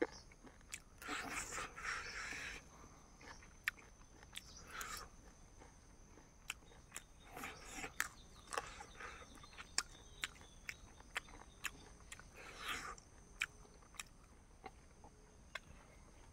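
A person chewing food with the mouth close to the microphone: frequent sharp wet clicks and lip smacks, with a few longer spells of louder chewing.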